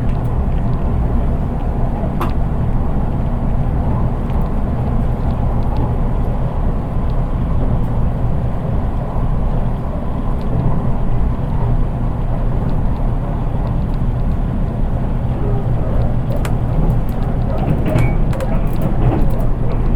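Running noise inside the unpowered KuHa 183 driving trailer car of a JR East 183 series electric train: a steady low rumble of wheels on rail, with a few faint clicks near the end. Little or no traction-motor sound is heard, since this car has no motors.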